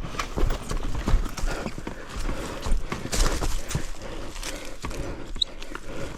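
Irregular clattering knocks and scrapes, several a second, with no running engine standing out.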